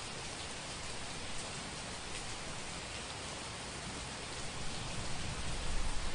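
Steady rain falling, a dense even hiss with scattered drops, growing a little louder and more uneven about four and a half seconds in.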